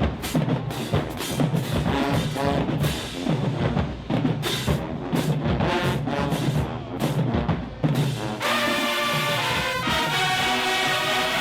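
High school marching band playing: a drumline beats out a steady rhythm under the horns, then about eight seconds in the drums drop out and the brass section holds sustained chords.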